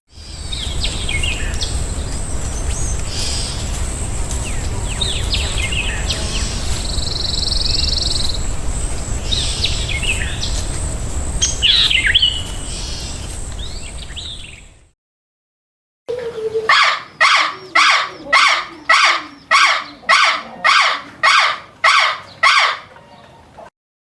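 Small birds chirping now and then over a steady low rumble and a constant high-pitched whine. After a sudden cut to a second of silence, a run of about a dozen evenly spaced loud calls follows, roughly two a second, each call harsh and rasping.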